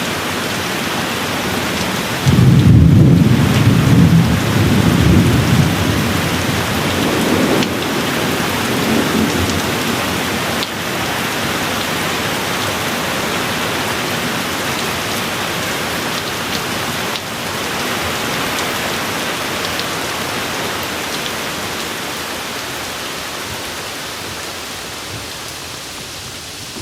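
Steady rain with a peal of thunder breaking about two seconds in. The thunder rumbles low for several seconds and dies away under the rain.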